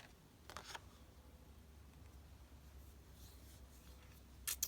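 Faint handling of printed paper sheets: a short rustle about half a second in and another, slightly louder, near the end, with quiet room tone between.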